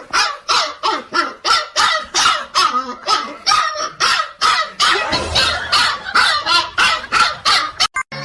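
Dog barking over and over in a fast, even rhythm of about three barks a second, stopping abruptly near the end.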